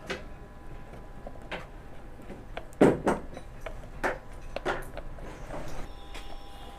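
Parts of a table fan being handled and fitted together: a series of separate clicks and knocks, the loudest about three seconds in.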